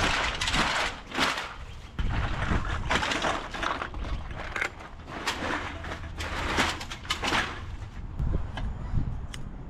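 Scrap aluminium cans being crushed and handled: an irregular string of crunching, clattering strokes that thins out to a few light clicks near the end.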